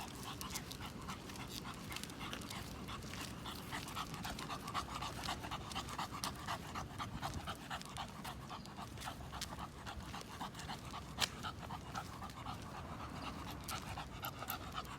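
English bulldog panting fast and steadily, worn out from a walk in humid, muggy heat.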